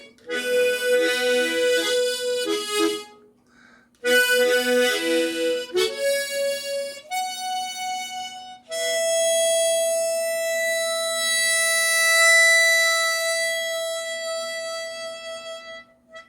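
Harmonica playing a slow closing phrase in chords, slowing toward the end, then one long final note held for about seven seconds with vibrato.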